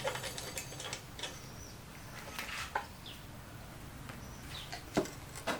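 Scattered light clicks and knocks, the loudest about five seconds in, with a few short chirps over a low steady hum.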